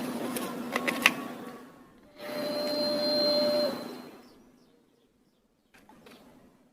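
A toy aeroplane's small motor whirring, with a couple of sharp plastic clicks in the first second or so, then a steadier whirr with a held tone for about a second and a half that fades out; a few faint clicks near the end.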